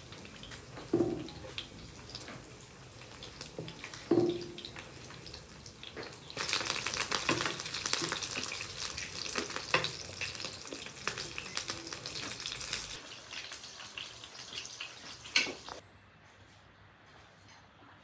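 Meat patties frying in oil in a non-stick pan: steady sizzling and crackling that grows louder and denser from about six seconds in. Two sharp knocks of a wooden spatula on the pan come early on, and the sizzling cuts off suddenly near the end.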